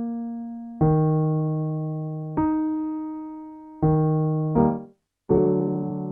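Piano keyboard playing single struck notes that ring and fade, about one and a half seconds apart: a low note, the note an octave above, the low note again and a note in between, then after a brief gap a chord. These are the pitch cues for a fifth-and-octave vocal slide exercise.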